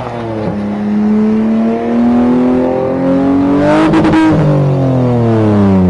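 Car engine revving under acceleration, its pitch climbing for about four seconds. A brief rough burst comes at the peak, then the pitch falls steadily as the car backs off or passes by.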